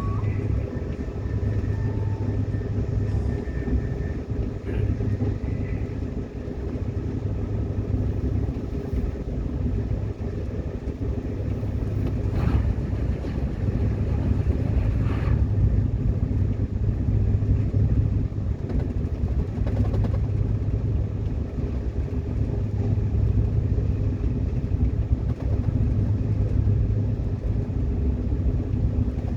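Train running on rails, a steady low rumble of wheels and running gear with a couple of faint knocks about twelve and fifteen seconds in.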